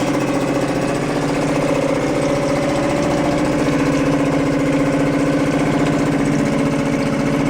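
Suzuki 2.5 hp four-stroke single-cylinder outboard motor idling steadily in neutral with the choke off after a cold start.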